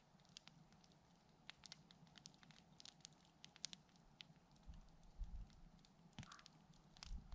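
Campfire wood crackling: faint, irregular small pops and snaps. A low rumble comes and goes in the second half.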